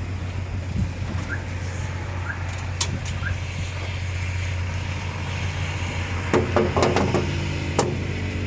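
A motor runs steadily with a low hum, and there are scattered sharp clicks. Near the end comes a quick cluster of metallic knocks and clatter.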